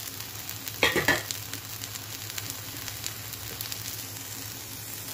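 Oil sizzling and crackling on a hot tava where halved tomatoes are roasting with chopped onion, garlic and green chillies. About a second in there is a short, louder noise.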